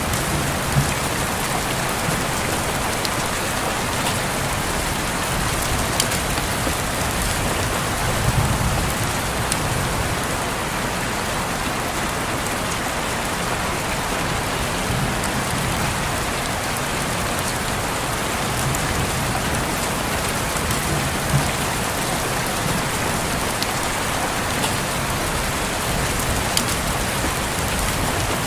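Steady rain falling on window glass, an even hiss with a few louder single drop taps and soft low rumbles now and then.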